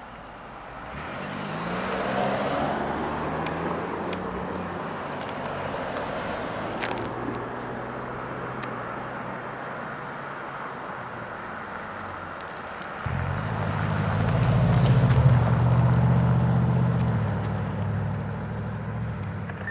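Motor vehicle engines running and passing on a road. A louder, low engine drone starts suddenly about two-thirds of the way through, swells and then fades.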